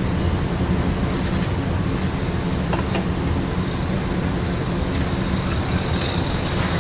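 HO scale model train, Milwaukee Road E8A diesel locomotives pulling passenger cars, rolling along the layout's track: a steady rumble of small wheels on rail and motor hum.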